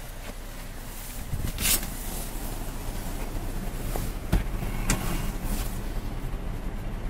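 Cadillac SRX's V6 engine starting about a second in, then idling steadily. Two sharp knocks come a little past the middle.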